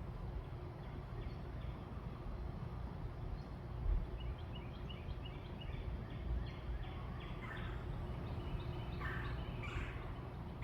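Wild birds calling: a quick run of short high notes, then louder, harsher calls near the end, over a steady low rumble.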